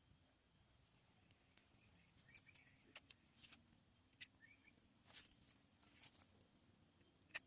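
Faint, scattered high-pitched chirps from small birds, some in quick little trills, with one sharper click near the end.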